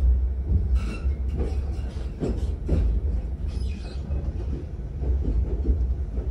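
Passenger train heard from inside the carriage as it moves off: a steady low rumble, with irregular knocks and clicks from the wheels running over the track.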